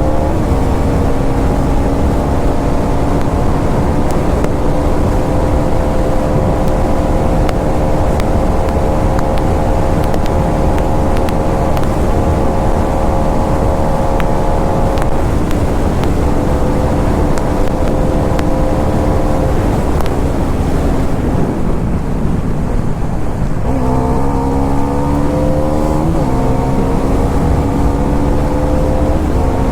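Bajaj Pulsar NS400 motorcycle's single-cylinder engine running at a steady cruising pitch under heavy wind noise on the microphone. A few seconds past the middle it eases off, then revs up, steps down in pitch at a gear change and revs up again near the end.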